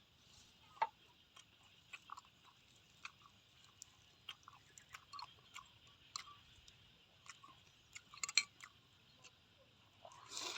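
Scattered small clicks and crunches at irregular intervals, with a sharper click about a second in and a louder cluster about eight seconds in.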